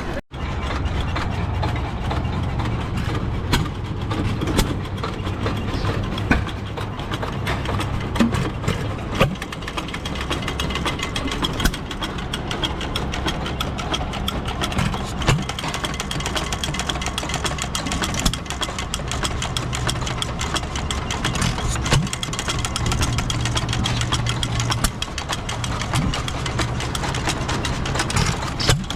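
Engine running steadily at idle, a fast even clatter over a low drone.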